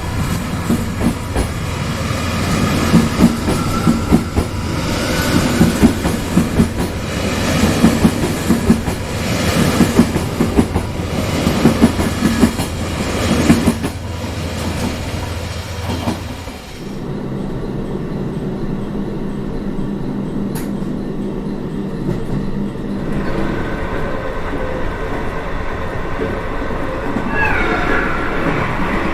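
Train running on rails, clattering rhythmically over rail joints with a heavy rumble. About two-thirds of the way in the rumble and clatter drop away to a smoother, quieter steady running sound.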